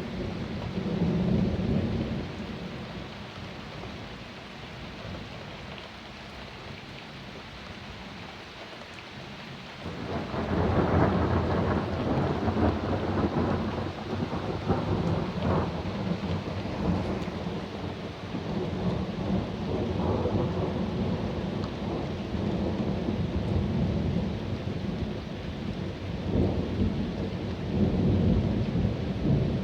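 Thunder during a thunderstorm, over steady rain: a rumble about a second in, then from about ten seconds in a long rolling peal that crackles and swells again and again.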